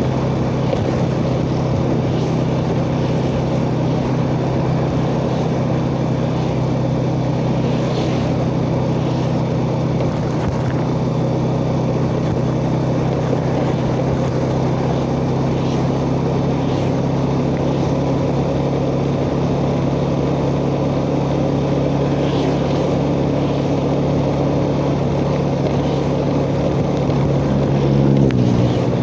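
Yamaha Jupiter Z underbone motorcycle's single-cylinder four-stroke engine running steadily while riding, heard from the rider's chest-mounted phone with a rush of wind and road noise. Near the end the engine note shifts and briefly gets a little louder.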